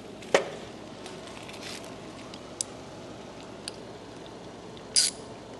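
Handling noises while unbolting a car's front fender: one sharp knock about a third of a second in, a couple of light ticks, and a short scraping hiss near the end, over steady workshop room noise.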